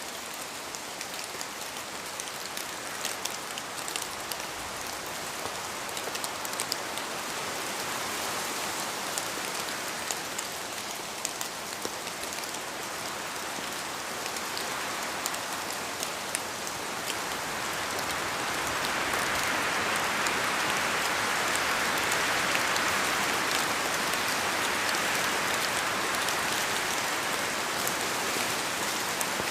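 Steady rain falling, with the patter of individual drops, swelling louder from a little past the midpoint.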